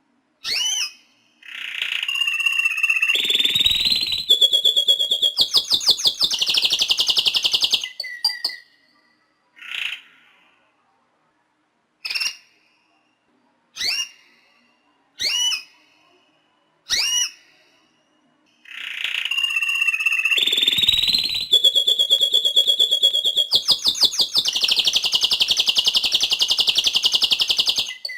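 Northern Dutch Frill canary singing: two long song phrases of fast trills and whistled notes, with single short chirps a second or two apart in the pause between them.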